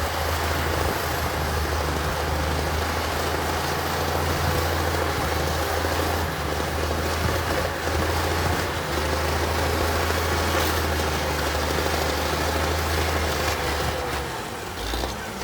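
Heavy earthmoving machine's diesel engine running steadily: a low drone with a faint whine above it, easing off about a second before the end.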